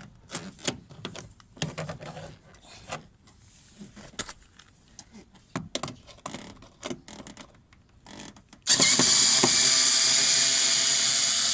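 Scattered light clicks and knocks of hands and tools on a car door panel. About nine seconds in, a cordless drill-driver whirs steadily for a few seconds, backing out a door panel screw.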